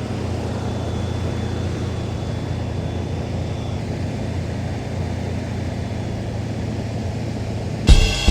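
1981 Corvette's 350 V8 idling steadily, with a faint high whistle that fades out about four seconds in.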